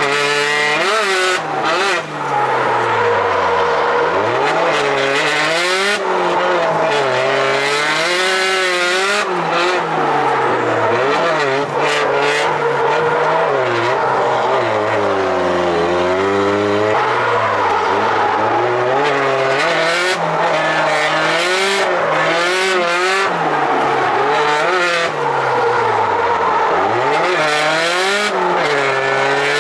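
Drift car's engine revving hard, its pitch sweeping up and down again and again through a drift run, with tyre squeal.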